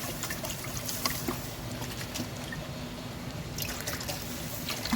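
Keng som soup base pouring from a bottle into a wok in a steady trickle.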